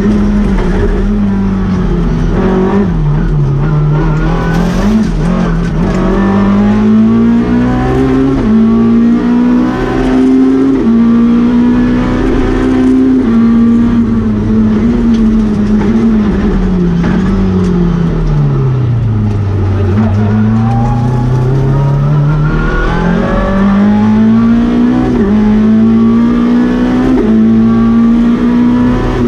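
Lada VFTS rally car's four-cylinder engine heard from inside the cabin, driven hard through the gears. The revs climb and drop repeatedly, fall off deeply about two-thirds of the way through, then climb again.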